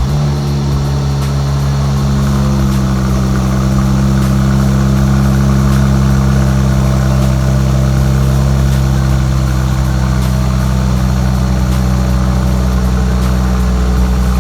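2016 Mercedes-Benz C450 AMG's twin-turbo V6 idling steadily just after a cold start, its exhaust note holding an even pitch.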